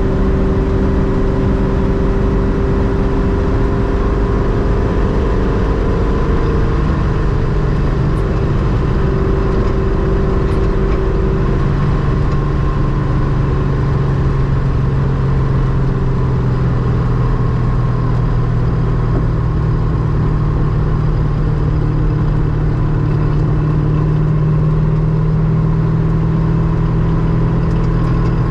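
GM LS-series V8 in an Ultima RS kit car running steadily on the road, the engine note holding fairly constant with a slight shift in pitch about a third of the way through.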